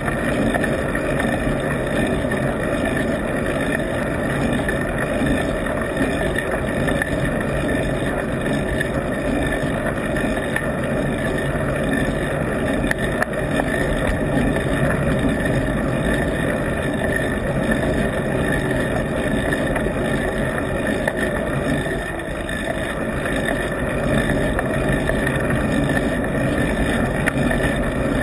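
Steady rush of wind and road noise from a bike in motion, holding level with only small dips and no distinct events.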